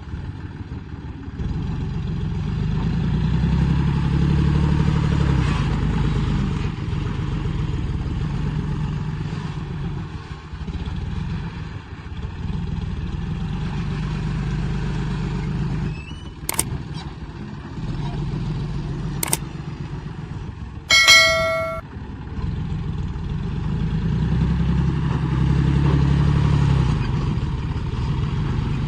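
Heavy machinery engine running under load, its sound swelling and easing as it works, with two sharp knocks and then one loud ringing metallic clang about two-thirds of the way through.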